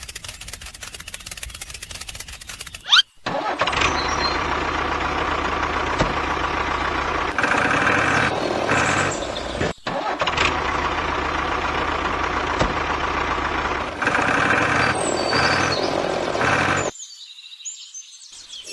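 Tractor engine: a quieter fast clatter like a starter cranking for about three seconds, then the engine running steadily with a brief drop about ten seconds in, cutting off near the end.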